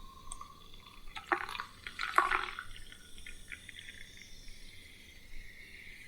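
Close-up eating of fried food: wet chewing and crunching clicks, in two dense bursts about one and two seconds in, then softer scattered chewing.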